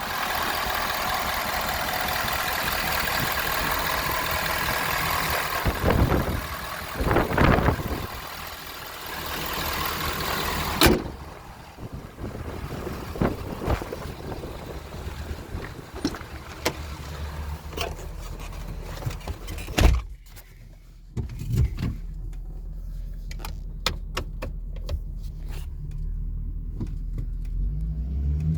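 A 2015 Ford F-550 truck's engine idling steadily, with several thumps and sharp knocks, one of them about twenty seconds in, after which a low steady hum with light clicks remains. Near the end the engine pitch starts rising as it begins to rev.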